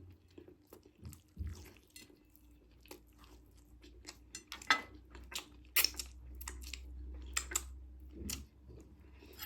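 Close-up chewing and biting of food, with wet mouth clicks and a few sharper crunches that grow denser in the second half.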